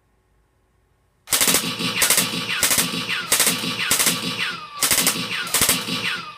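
Simulated rifle gunshots from a laser-training range simulator's sound effects: seven shots starting about a second in, roughly two-thirds of a second apart, each followed by a falling ringing tone.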